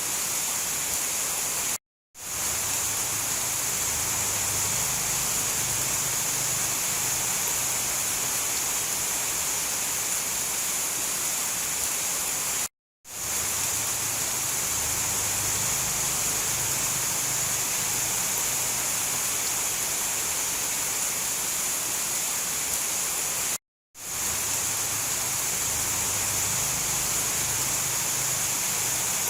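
Steady heavy rainfall, an even hiss with a strong high band. It cuts out to silence for an instant three times, about every eleven seconds.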